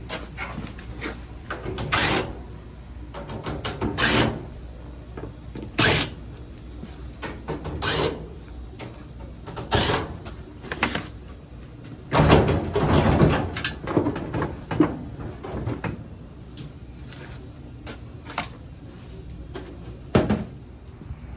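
Clunks and rattles of a clothes dryer's sheet-metal cabinet and parts being handled during disassembly. About a dozen sharp knocks come a second or two apart, with a busier stretch of clattering around the middle.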